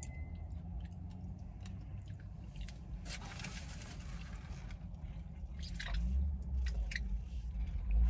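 Mouth sounds of someone chewing a mouthful of a KFC Famous Bowl (mashed potatoes, corn, chicken and gravy), with small wet clicks, over a low steady hum. A soft hiss comes in about three seconds in and lasts a couple of seconds.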